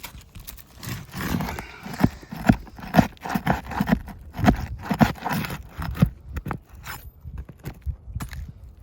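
Irregular sharp knocks and scraping on an asphalt shingle roof as a shingle is worked loose, at about two knocks a second through the middle of the stretch.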